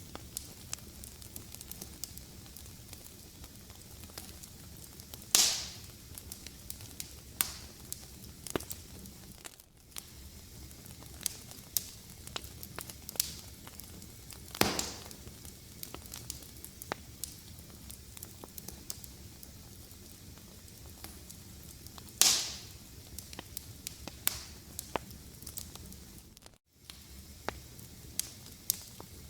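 Fireplace fire crackling: frequent small snaps over a soft steady hiss, with three louder pops several seconds apart. The sound briefly drops out twice.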